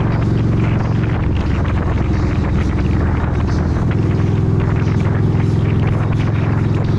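Motorcycle engine running steadily while riding, with wind and road noise over it. The engine note changes a little over halfway through, as if the throttle or gear changes.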